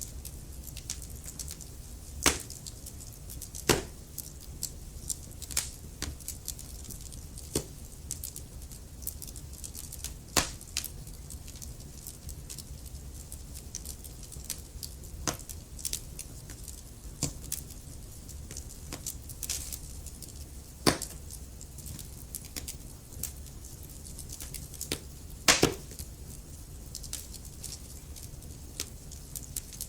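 Wood fire burning in a fireplace: irregular sharp crackles and pops over a steady low rumble of the flames, with a few louder snaps scattered through.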